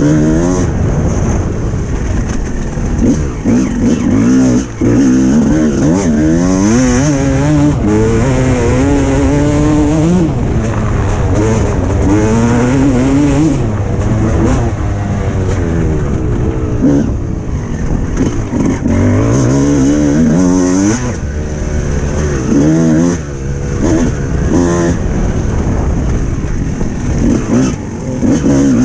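Suzuki RM 300cc two-stroke motocross bike engine ridden hard, its revs climbing again and again and falling back as the rider works the throttle and gears, with a few brief drops when the throttle is shut off.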